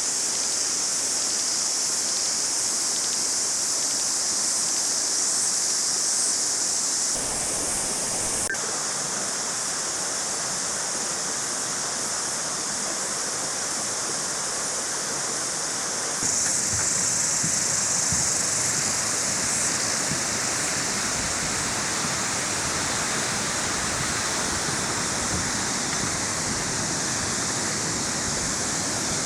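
Steady rushing of falling water, a waterfall, with the loudness and brightness stepping up or down suddenly about 7 and 16 seconds in.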